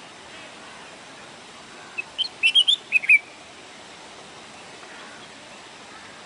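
A sparrow chirping: a quick run of about seven short, high chirps about two seconds in, over a steady hiss.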